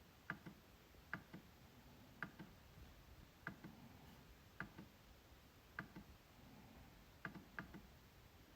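MacBook trackpad being clicked over and over, about once a second. Each click is a quick double tick of press and release, soft against near silence.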